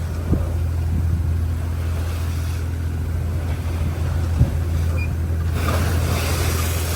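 Trawler's engine running with a steady low drone, under a wash of wind and sea noise that swells to a louder rush about five and a half seconds in. A couple of faint knocks sound early on and near the middle.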